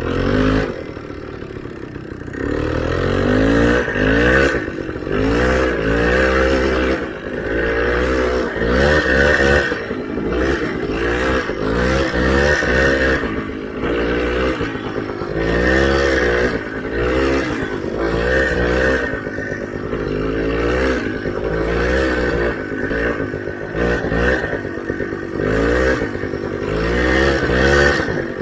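Motorcycle engine revved up and down again and again, a rise and fall about every two seconds, as the bike works through deep snow.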